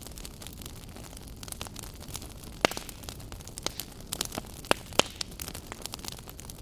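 Wood fire burning in a fireplace: a steady low rumble with irregular sharp crackles and pops, the loudest about two and a half and five seconds in.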